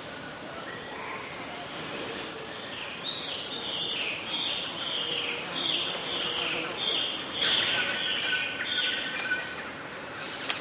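A songbird singing: a rapid run of short whistled notes that step down in pitch, then a string of repeated notes, over steady outdoor background noise.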